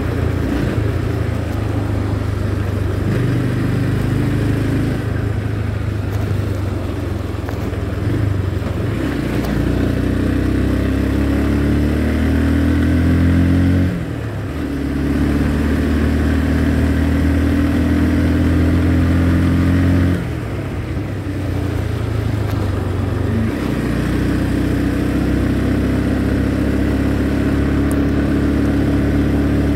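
Motorcycle engine under way, accelerating through the gears: the engine note climbs, then drops sharply with each upshift, about 14 s, 20 s and 23 s in, and climbs again.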